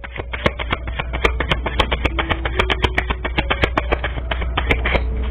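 Tarot cards being shuffled: a rapid, irregular run of short clicks and slaps, several a second, over a steady low hum.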